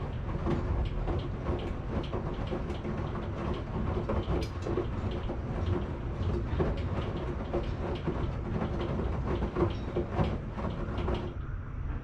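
Washing machine running: a steady low rumble of the turning drum with irregular clicking and knocking. The clicking stops suddenly shortly before the end, leaving the rumble.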